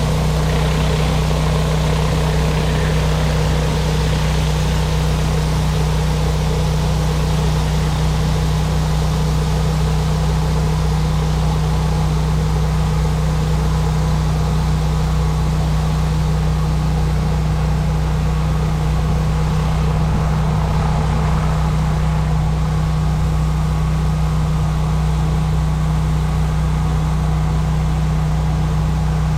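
Pressure washer's gas engine running steadily under load, with the hiss of high-pressure water spray over it.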